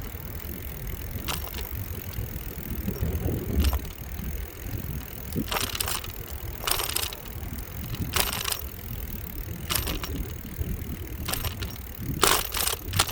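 Bicycle riding over rough, uneven pavement: a steady low rumble of wind and rolling tyres, broken every second or two by short sharp rattling clatters as the bike jolts over bumps.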